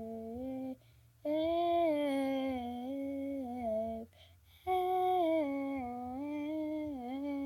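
A girl humming a wordless melody a cappella, in three long gliding phrases broken by two short pauses for breath.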